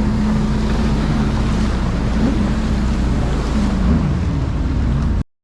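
Jet ski engine running steadily at speed on open water, with wind buffeting the microphone and water rushing. The sound cuts out for a moment near the end.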